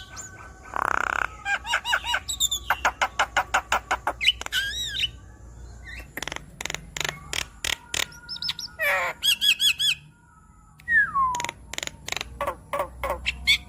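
Javan myna singing a varied song: a harsh squawk, then runs of rapid chattering notes, a trill and a clear falling whistle near the end.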